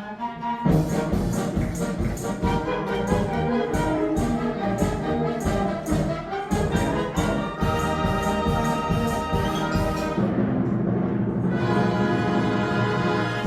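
Concert wind band playing. A soft passage gives way under a second in to the full band with a steady beat, and it ends on a long held chord over the last few seconds.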